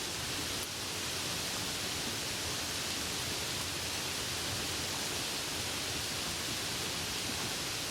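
Steady rain ambience: an even wash of rainfall with no breaks or individual drops standing out.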